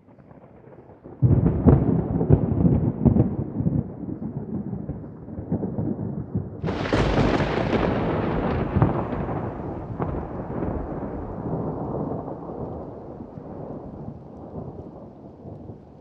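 Thunder: a deep rumbling peal breaks in suddenly about a second in, then a sharper, brighter crack comes about six and a half seconds in and rolls on, slowly fading away.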